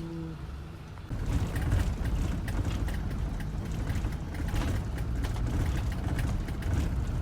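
Bus in motion heard from inside the cabin: steady low engine and road rumble with frequent rattles and knocks, starting abruptly about a second in.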